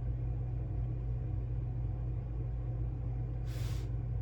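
A steady low background hum, with a brief hiss about three and a half seconds in.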